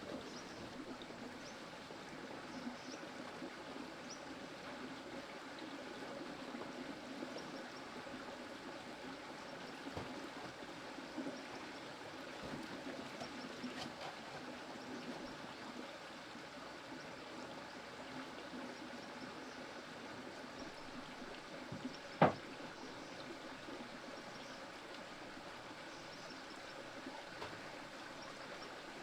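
Steady trickle of flowing stream water, with one sharp knock about three-quarters of the way through.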